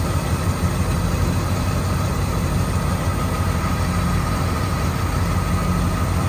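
1967 Lincoln Continental's 462 V8 idling steadily while warming up from a cold start, a constant low drone with a faint steady whine above it.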